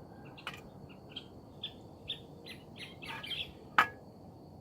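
Birds chirping in short, scattered calls, with a single sharp click about four seconds in.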